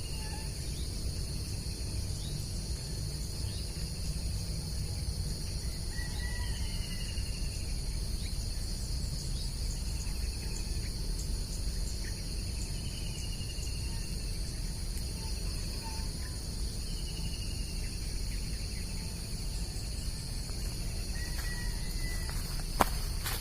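Steady high-pitched chorus of crickets and other insects, with a bird giving a short, falling, trilled call every three or four seconds. A low rumble runs underneath, and there is one sharp click near the end.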